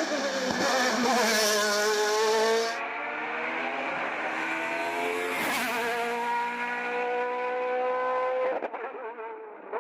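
Race car engine at full throttle on a hill climb, its pitch rising through the gears with two quick upshifts. About a second before the end the throttle closes and the engine note drops and breaks up into irregular pops.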